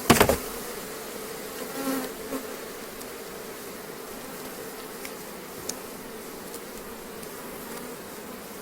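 Honeybees from a strong, opened colony buzzing steadily in a dense, even hum. A single sharp knock at the very start, and a few faint clicks later.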